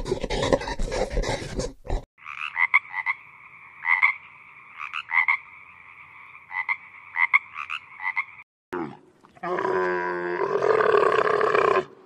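A frog calling in a steady chorus of repeated croaks, each one swelling in loudness, for about six seconds. Before it comes about two seconds of crackling from the giant panda clip, and about nine and a half seconds in a camel starts a long, rough call that cuts off at the end.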